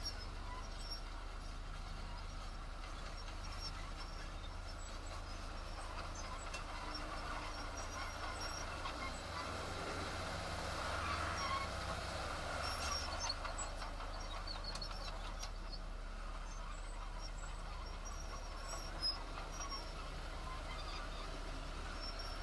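Heavy diesel construction machinery running steadily with a low hum, growing louder for a few seconds around the middle, with faint high chirps on top.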